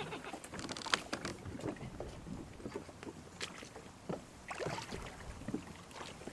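3Waters Big Fish 120 kayak knocking and scraping with scattered small clicks and bumps as it lands on shore, over a low wind rumble.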